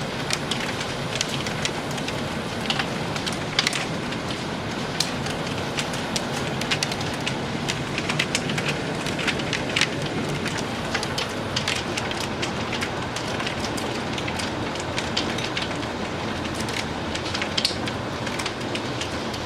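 Small round hail pellets falling thickly: a steady hiss broken by many sharp ticks as the pellets strike hard surfaces.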